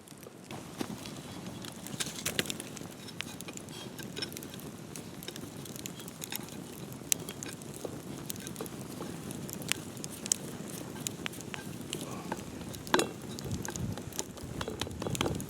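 Campfire crackling, with irregular sharp pops and snaps over a steady low hiss, and one louder knock late on.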